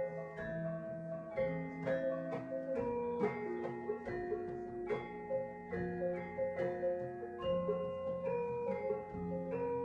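A band playing an instrumental passage live: struck, ringing pitched notes, several at once, over held low notes.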